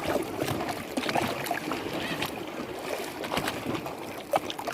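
Lake water lapping and splashing: a steady wash broken by many small, irregular slaps.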